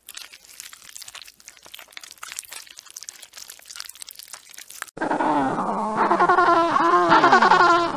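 Faint crackling and rustling clicks, then, about five seconds in, an animal starts a louder run of repeated pitched calls, each rising and falling.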